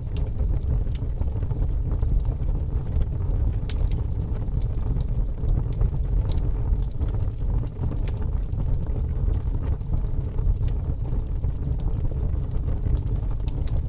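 Fire burning steadily with a low rumble, crackling and popping with frequent sharp snaps.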